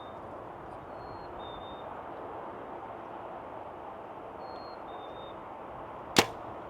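A bow is shot once near the end: a single sharp snap of the string, much louder than the steady outdoor hiss around it.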